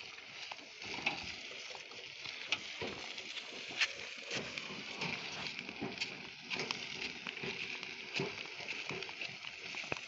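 Irregular crunching and scuffing of footsteps and hauled logs on dry, littered ground, with many small crackles over a steady high hiss.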